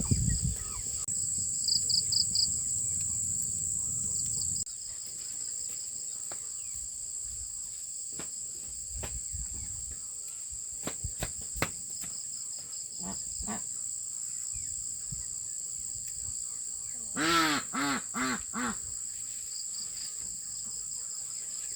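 Insects chirring in a steady high drone, with scattered sharp knocks and clicks. About seventeen seconds in, four short pitched calls stand out as the loudest sounds.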